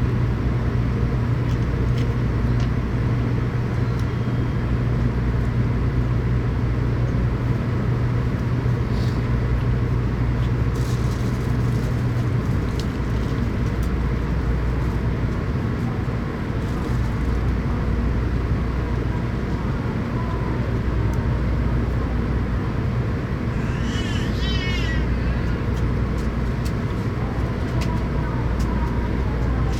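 Steady low rumble and hum inside a Tokaido Shinkansen passenger car. One low hum drops out about twelve seconds in, and a brief warbling chirp sounds near the end.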